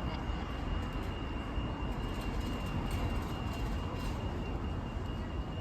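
Steady low rumble of vehicles or a train, with a thin continuous high-pitched tone throughout.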